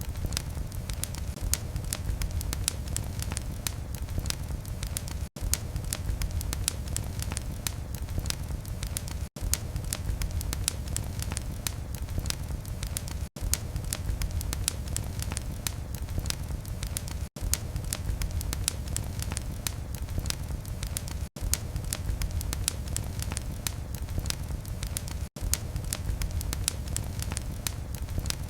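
Fireplace fire burning with a steady low rumble and dense, continuous crackling and popping. The sound drops out for a split second about every four seconds.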